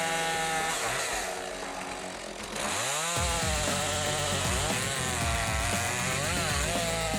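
Chainsaw running, its engine pitch repeatedly dipping and rising. It gets louder about two and a half seconds in.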